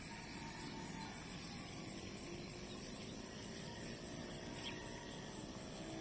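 Insects chirping in a steady, high-pitched pulsing trill, over a low background hiss.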